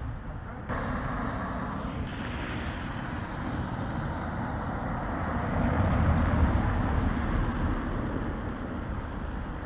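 Road traffic on a wet street: a steady hiss of tyres on wet tarmac, with a heavier vehicle's engine rumble swelling to its loudest around six seconds in and then easing off.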